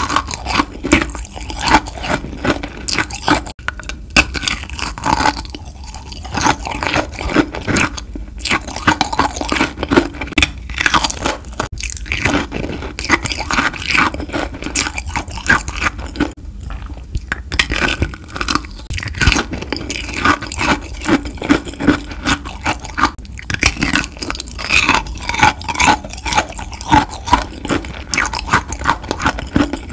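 Chewing kohakutou, the agar jelly candy with a crystallised sugar crust: continuous crisp crunching made of many quick small crackles, with a few short pauses.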